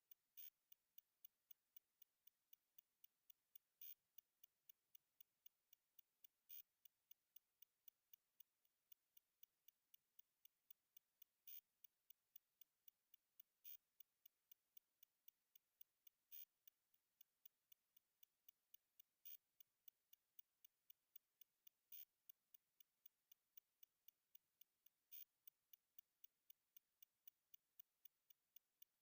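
Near silence with faint, evenly spaced high ticks, about three a second.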